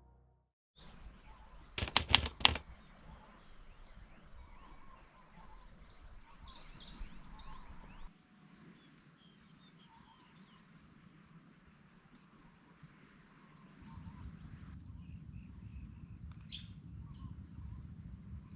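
Outdoor nature ambience: birds chirping over a steady high-pitched hiss. A few sharp, loud clicks come about two seconds in, and a low rumble comes in near the end.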